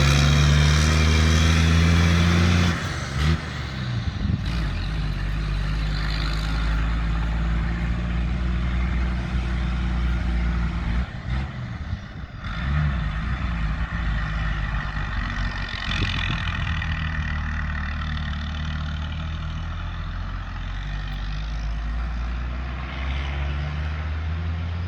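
Caterpillar 3116 inline-six turbo diesel in a GMC TopKick, straight-piped from the turbo back with no muffler, running loud at raised revs for the first few seconds, then dropping back suddenly to a lower, steady running note.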